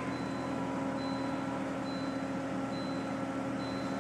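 Volvo S70 turbo's five-cylinder engine idling steadily after a cold start, with a faint high beep repeating a little more than once a second.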